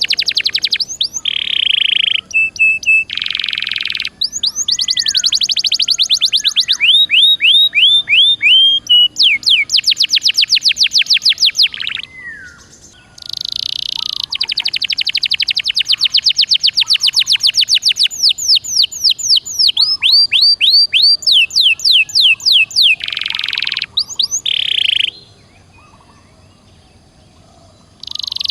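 Domestic canary singing a loud, continuous song of rapid trills and fast runs of repeated sweeping notes. It breaks off briefly about twelve seconds in, and again for about three seconds near the end.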